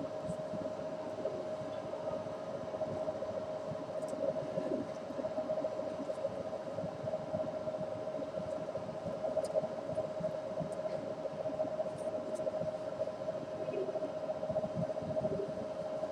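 A steady mechanical hum with one strong held tone over a noisy rumble, with a few faint, brief high ticks now and then.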